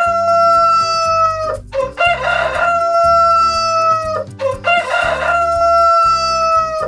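Rooster crowing three times in a row. Each crow lasts about two seconds and ends in a long held, slightly falling note.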